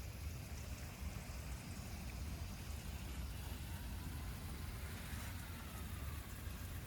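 Steady outdoor background noise in a garden: a low rumble with an even hiss over it, and no distinct events.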